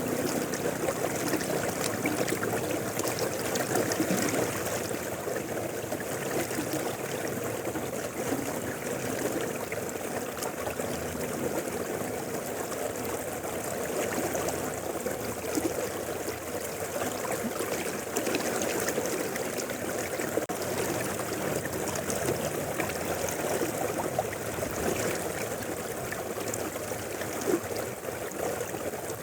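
Mountain river flowing steadily over rocks, a continuous rushing and babbling of water.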